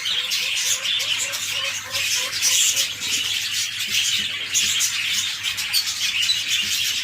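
Budgerigar colony chattering and warbling without a break, a dense mass of high chirps, with a short run of quick low notes in the first two seconds.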